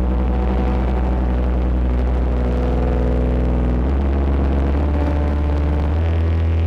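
Eurorack modular synthesizer playing a distorted ambient drone loop, its oscillator run through Lyra8-FX distortion and Mimeophon delay. Held low bass notes and gritty overtones, the chord shifting about four seconds in and again near the end.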